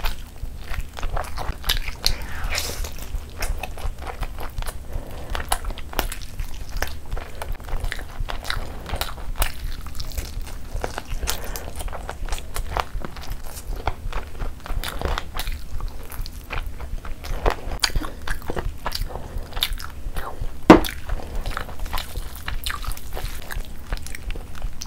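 Close-miked chewing and biting of chicken and spiced biryani rice, with many small wet mouth clicks and smacks, and one sharper, louder click late on.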